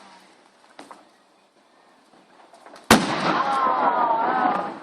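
A firework bursting with a single sharp bang about three seconds in, after a quiet start with a faint pop near the beginning; people's voices follow the bang.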